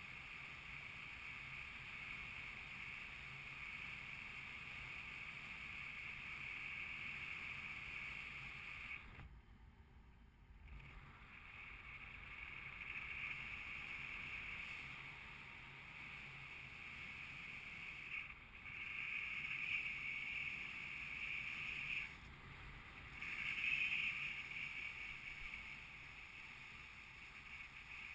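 Steady rushing wind noise of airflow in flight. It drops to a brief lull about nine seconds in and swells in stronger gusts around twenty and twenty-four seconds.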